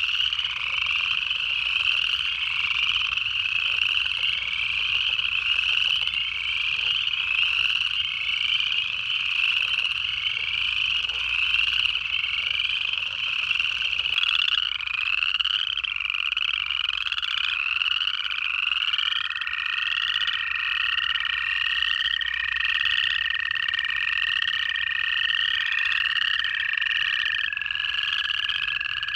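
Dense chorus of upland chorus frogs, their rising trills repeating and overlapping. From about two-thirds of the way in, an American toad's long, steady trill runs under the chorus and drops slightly in pitch near the end.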